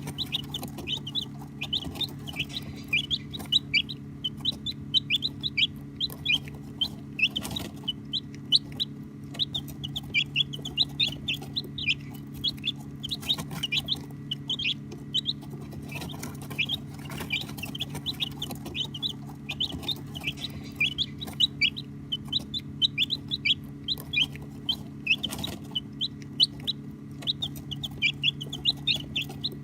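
A brood of baby chicks peeping continuously, many short, high, falling peeps overlapping, over a steady low hum.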